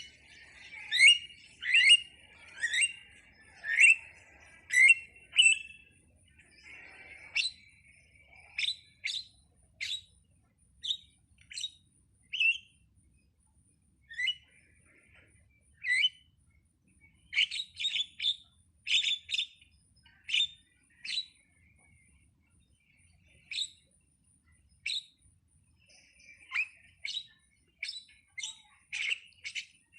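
Jalak (starling) calling: a series of short, sharp rising chirps, about two a second at first, then irregular single calls and quick clusters with a brief pause.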